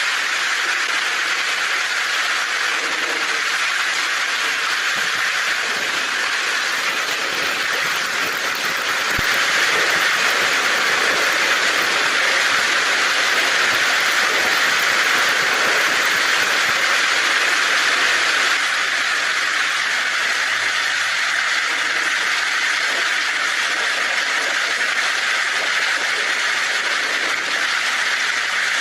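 Heavy rain drumming steadily on a tin roof. It grows louder about ten seconds in and eases back a little after about eighteen seconds.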